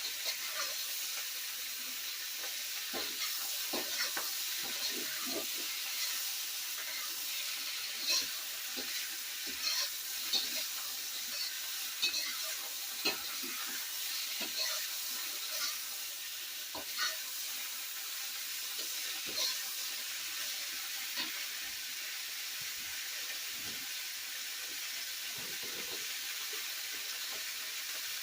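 Bok choy with garlic and ginger stir-frying in a wok: a steady sizzle with scattered short scrapes and knocks of the utensil against the pan.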